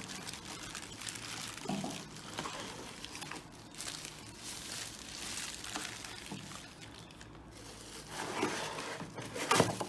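Packaging being handled during unboxing: plastic wrap and cardboard rustling and crinkling in irregular bursts, louder near the end.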